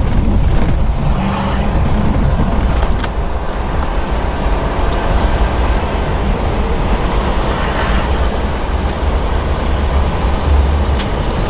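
A moving vehicle's road and wind noise: a loud, steady rushing noise with a heavy low rumble.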